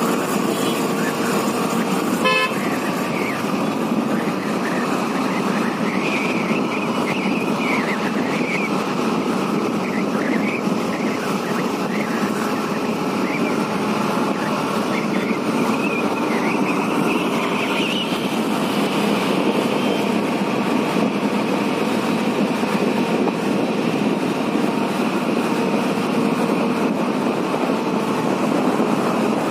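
City street traffic heard from a moving motorcycle: a steady din of engines and road noise, with vehicle horns sounding now and then.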